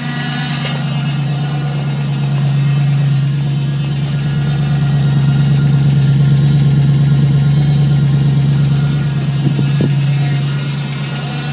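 1995 Range Rover Classic's Rover V8 idling cold just after a start in freezing temperatures, with a steady low moaning drone that swells a little midway; the engine is still far below operating temperature.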